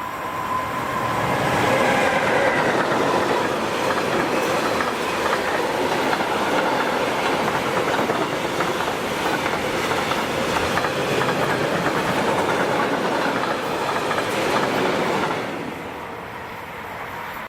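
Train passing close by, loud for about fourteen seconds, then easing off near the end. A whine that drops in pitch sounds in the first few seconds as it arrives.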